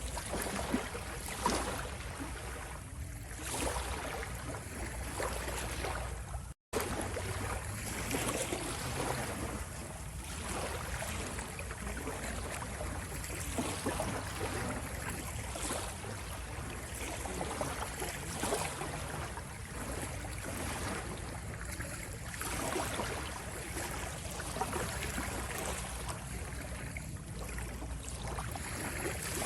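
Sea waves washing and lapping: a continuous rush of water that swells and ebbs. It breaks off completely for an instant about six and a half seconds in.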